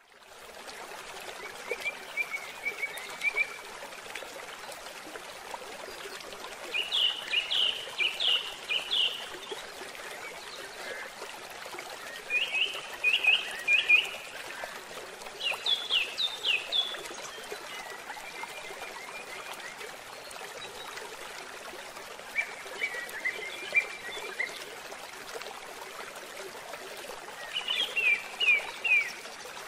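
A bird singing short phrases of a few quick, falling notes, repeated every few seconds, over a steady rush of running water.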